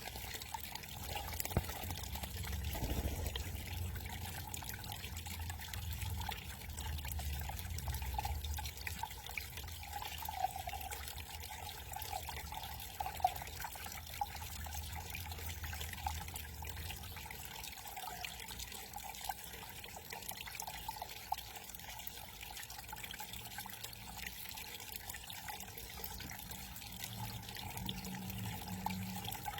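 Small backyard waterfall trickling and splashing steadily, with a low rumble underneath for about the first half.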